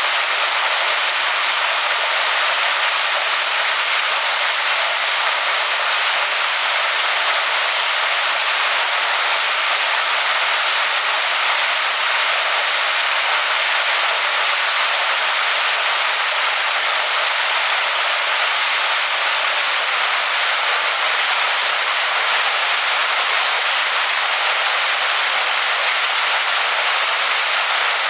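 Waterfall pouring onto rocks: a steady, unbroken rush of water, bright and hissy with almost no low rumble.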